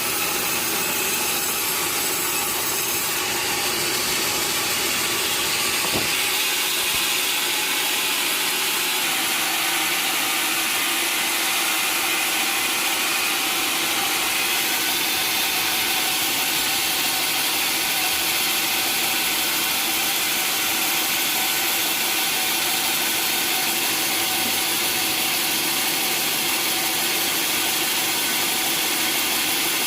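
Sawmill saw cutting steadily through a log: a continuous bright rasping noise with a steady whine, shifting slightly about three seconds in and again near nine seconds.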